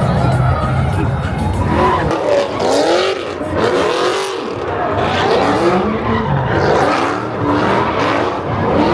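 Car doing a burnout: engine revving up and down while the tires squeal on the pavement.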